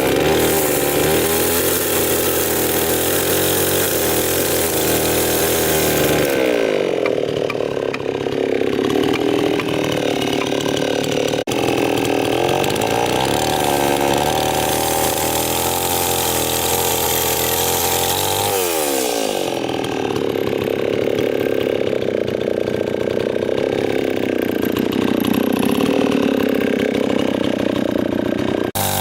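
Small engine-driven power tool running hard on wood, its engine pitch falling and rising several times as the load changes.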